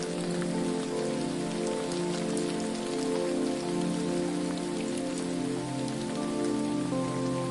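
Steady hiss of falling water with scattered small droplet ticks, laid over soft held tones that shift slowly in pitch, like an ambient music pad.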